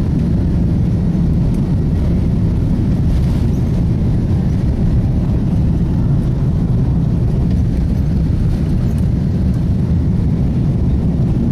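Steady low rumble of an airliner's jet engines and rushing air, heard inside the passenger cabin.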